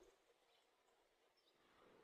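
Near silence: faint outdoor ambience with a few brief, faint high bird chirps.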